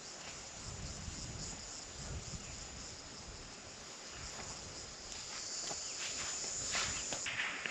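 Insects chirping in a steady high-pitched chorus, with a few scuffs and clicks near the end.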